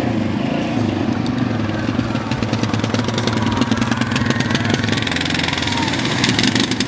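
ATV engines running and revving, with a dense crackle of clicks coming in about three seconds in.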